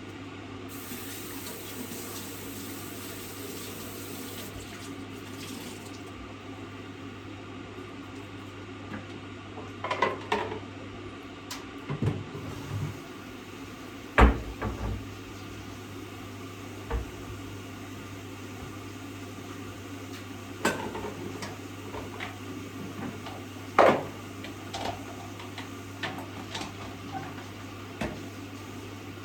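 Water running in a kitchen sink under a steady low hum, while items being washed clatter and knock against it now and then, most sharply twice.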